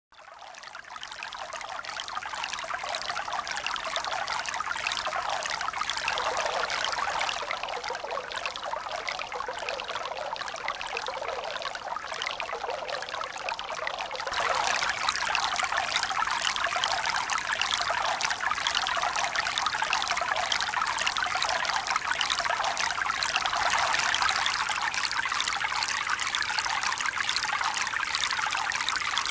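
Steady rushing of running water, fading in over the first couple of seconds and turning louder and brighter about halfway through.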